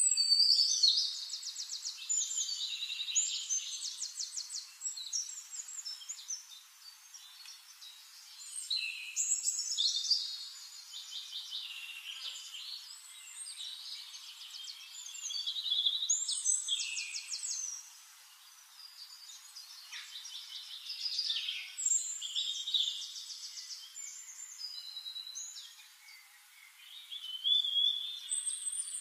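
Songbirds singing: phrases of rapid high trills and chirps, a new burst every few seconds.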